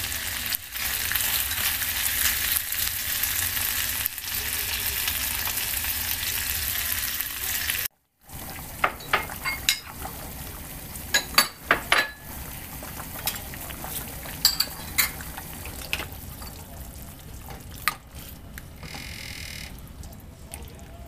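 Food sizzling loudly in a frying pan as it is stirred. About eight seconds in the sound cuts off. It picks up again quieter, with scattered sharp clicks and taps of a cooking utensil.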